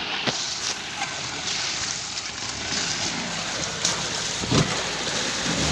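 Steady rushing noise, like wind, with a few faint knocks.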